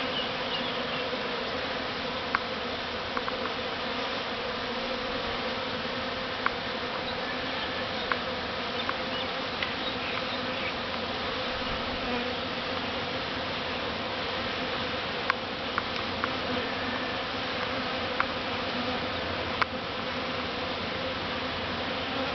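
Dense, steady buzzing hum of a honeybee swarm, thousands of bees flying and settling close around a hive box. Occasional sharp ticks stand out above the hum.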